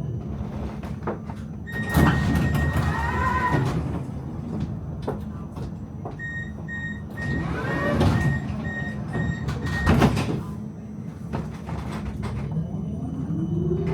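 Melbourne tram doors at a stop: a steady high tone sounds as the doors open, then a run of short repeated beeps warns that they are closing, ending with a sharp knock as they shut. The traction motor's whine then starts to rise as the tram pulls away, over a steady low hum.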